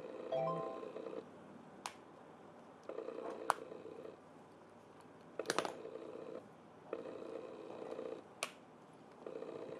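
A small motor whirring in repeated bursts of about a second, five times, with sharp clicks from handling in between.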